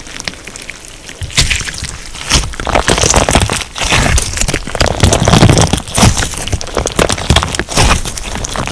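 Crunchy slime being squeezed and pressed by hand, giving dense crackling and popping. It is softer for the first second or so, then louder and busier.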